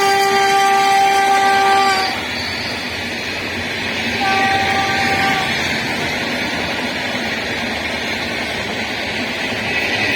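WAP7 electric locomotive's horn sounding: one steady blast that ends about two seconds in, then a shorter, fainter blast about four seconds in, over the continuous rumble of the train running on the track.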